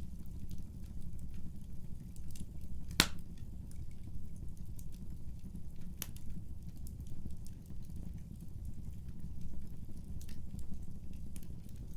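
Wood fire burning with a steady low rumble and scattered sharp crackles, with one loud pop about three seconds in and a smaller one about six seconds in.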